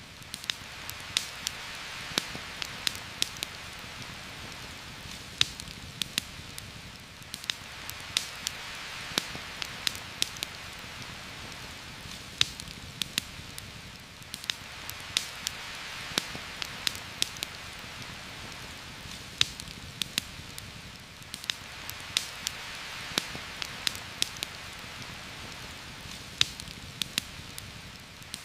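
Steady rain falling on forest foliage, swelling and easing every several seconds, with frequent sharp pops and crackles from a campfire scattered through it.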